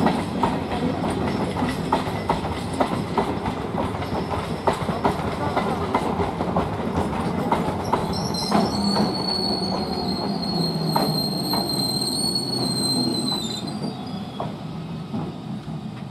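A 12-coach electric multiple unit (EMU) suburban train passing close by: a steady rumble with repeated sharp clacks of the wheels over rail joints. About halfway through a high, steady wheel squeal sets in and holds for some five seconds before stopping, and the sound fades near the end.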